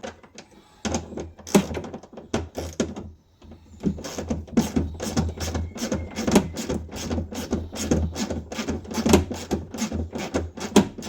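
Rapid, irregular metallic clicking and knocking from a hand ratchet loosening the bolts of a Land Rover Defender's aluminium rear seat box, the clicks thickening into a near-continuous rattle after about four seconds.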